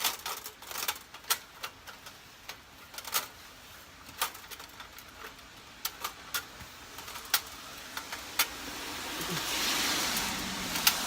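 Light metal clicks and taps of a Sho's Takibi no Hako folding box stove's panels being handled and fitted together during assembly. A hiss builds up about eight seconds in and stays to the end.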